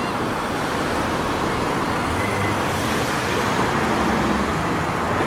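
Steady street traffic noise, with road vehicles running past.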